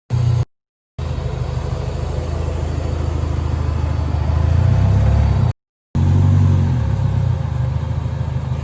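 1999 Toyota Camry's engine running with a steady low-pitched note. It swells louder about four seconds in and eases off again near the end. The sound cuts out to dead silence for short moments three times.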